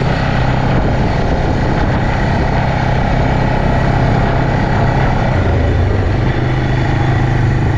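Quad bike engine, running on a new carburettor, running steadily, with a brief drop in pitch a little past the middle.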